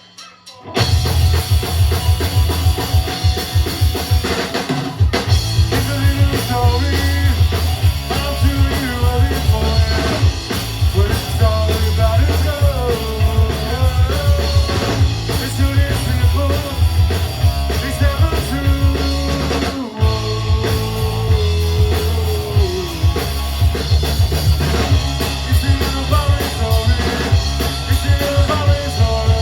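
Loud rock music from a band: drum kit, bass and electric guitar. The music drops out briefly at the very start and comes back in full under a second later.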